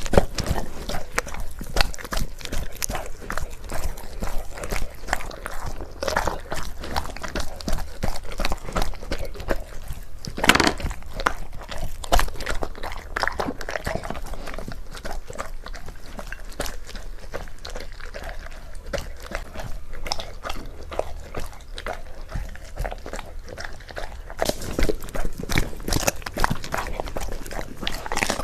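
Golden retriever chewing and crunching its food with irregular bites and crunches, which grow denser near the end.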